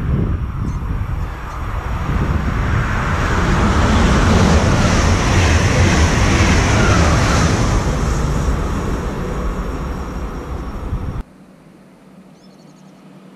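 WESTbahn Stadler KISS double-deck electric multiple unit passing at speed: a loud rumble and rush of wheels on rails that swells to a peak and then fades as the train goes by. About eleven seconds in it cuts off abruptly, and only a much quieter open-air background remains.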